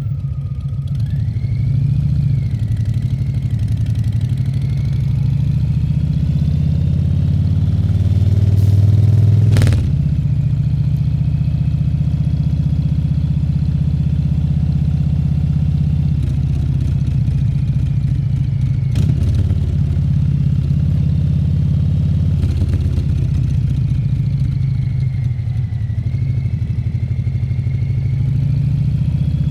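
Harley-Davidson Fat Bob 114's Milwaukee-Eight 114 V-twin engine running while riding, its pitch building for several seconds and then dropping sharply about ten seconds in, with another sudden drop near twenty seconds.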